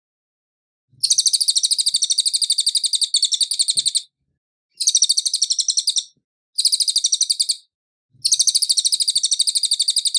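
A cililin bird singing: runs of fast, evenly repeated high notes, four runs about a second to three seconds long with short pauses between them.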